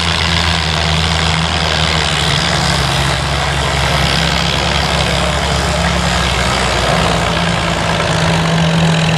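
Gasoline farm tractor engine running loudly and steadily at the end of its pull, with a slight change in its tone about seven seconds in.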